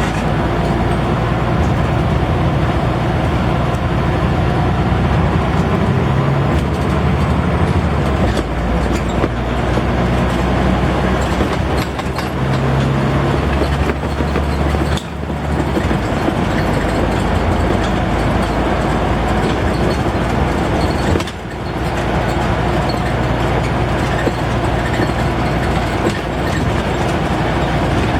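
Scania N94UD double-decker bus's diesel engine running under load, its note rising and falling, with two brief drops in level around 15 and 21 seconds in.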